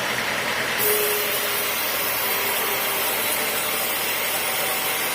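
Sawmill saw running and cutting through a teak stump, a steady machine noise; about a second in, a bright high hiss and a steady tone join as the blade bites into the wood.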